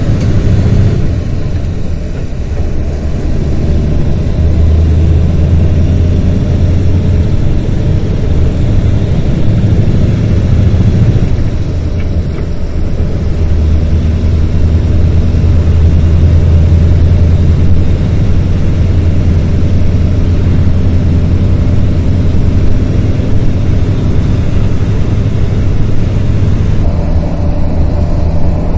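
Steady low rumble of a vehicle on the move: engine and road noise, with a faint steady hum above it.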